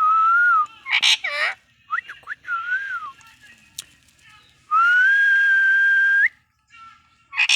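Parrot whistling clear notes: a few short whistles, then one long steady whistle held for about a second and a half. Two brief harsh squawks break in, about a second in and again at the end.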